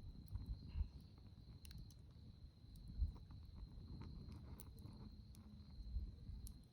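Campfire crackling with scattered small pops, over an unbroken high-pitched insect trill and a low uneven rumble.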